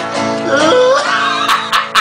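Acoustic guitar strumming, with a wordless voice sound that slides up and down in pitch about halfway through.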